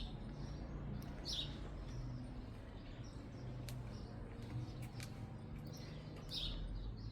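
Birds chirping: short, high chirps a few seconds apart, over a steady low background rumble.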